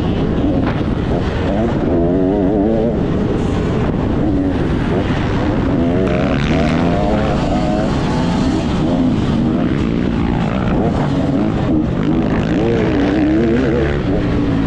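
Motocross bike engine revving up and down as it is ridden, its pitch rising and falling with each throttle change.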